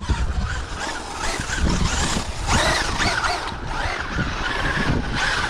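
Traxxas UDR radio-controlled trophy truck driving fast: its brushless electric motor whines, rising and falling in pitch with the throttle, over tire and running noise.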